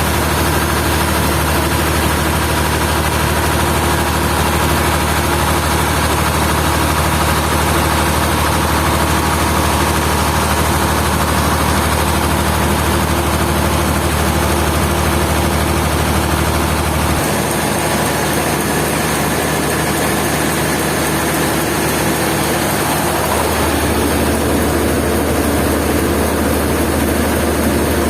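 Sawmill machinery running steadily with a heavy engine-like drone. Its low hum drops away about two-thirds through and comes back a few seconds later.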